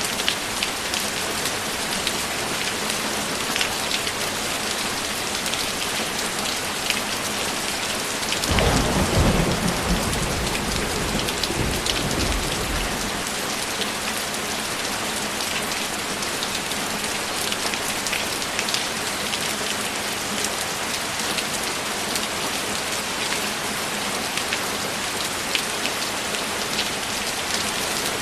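Steady rain falling on a surface, with individual drops ticking throughout. About eight seconds in, a low roll of thunder rumbles for about five seconds and fades.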